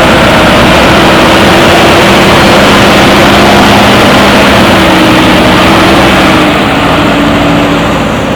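Loud, steady motor noise with a few pitch steps, easing a little near the end.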